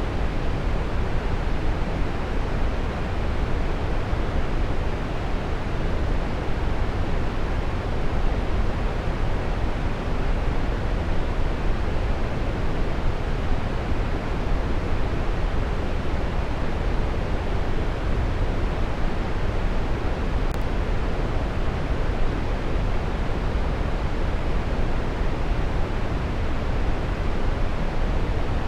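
Waterfall: water falling and splashing, a steady, even rush of noise weighted toward the low end.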